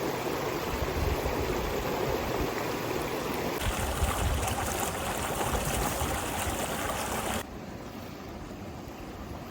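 River water running steadily, with low wind rumble on the microphone. The sound changes abruptly about three and a half seconds in, then drops to a quieter level about seven and a half seconds in.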